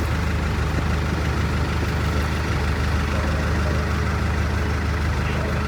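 River boat's engine running steadily, a continuous low drone.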